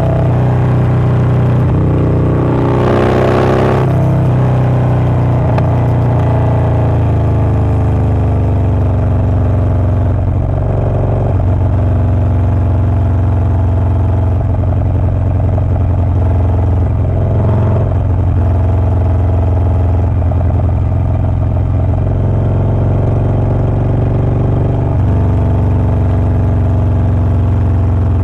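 Harley-Davidson Low Rider S's Milwaukee-Eight 117 V-twin with a Wood Performance 777XE cam, running loud and steady. Its note steps in pitch and level a few times, about 10, 17 and 25 seconds in. A brief hissing rush comes about three seconds in.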